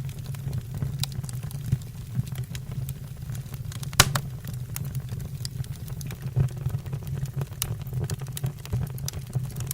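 Wood fire burning in a fireplace: irregular sharp crackles and pops over a steady low rumble of the flames, with one loud pop about four seconds in.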